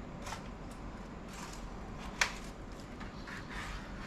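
Light clicks and scraping of plastic laptop parts being handled and pried, with one sharp click about two seconds in, over a faint steady hum.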